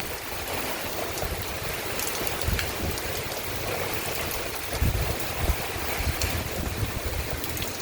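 Heavy thunderstorm downpour pouring steadily, with gusts of wind buffeting the microphone a few times, strongest around the middle.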